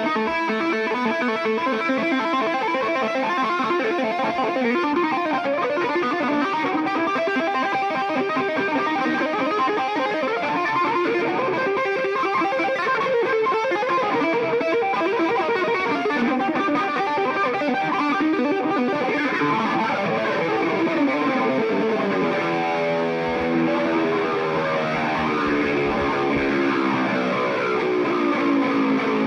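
Live rock music led by a distorted electric guitar playing lead lines, with many sliding pitches in the second half.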